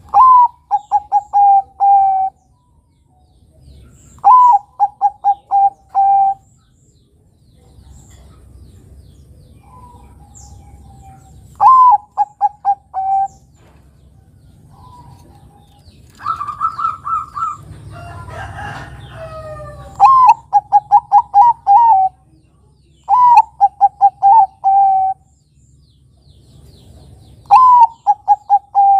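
Zebra dove (Bangkok perkutut) singing its staccato cooing song. Each phrase is a rising first note followed by a quick run of about five short coos, and the phrase is repeated six times with pauses of a few seconds. Around the middle comes a higher, steadier call with some rustling noise.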